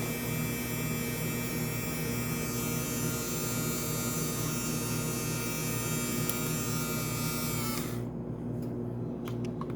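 Mini washing machine's electric motor running with a steady hum and a higher whine; the whine cuts off about eight seconds in, leaving a low hum.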